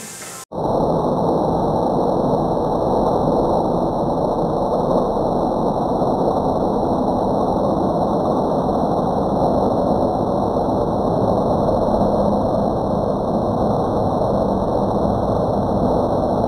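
A loud, steady engine-like running noise that starts abruptly about half a second in, its upper range muffled.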